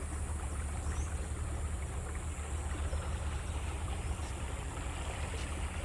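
Boat motor running steadily with a low, even hum, and a steady high hiss above it.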